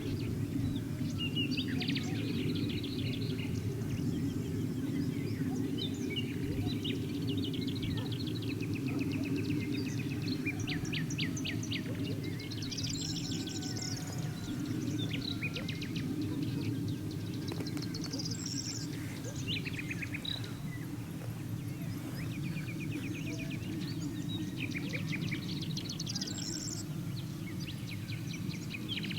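Morning chorus of several birds singing and calling, with rapid trills and short repeated notes, and one louder song phrase coming three times about six seconds apart. Beneath the birds runs a steady low background rumble.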